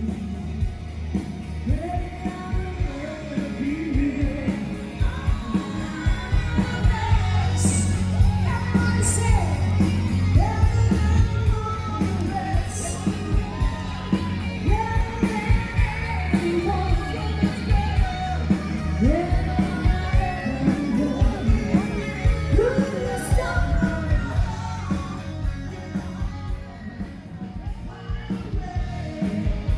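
Live band music with a lead voice singing over a heavy, steady bass and a regular beat, played loud through a PA.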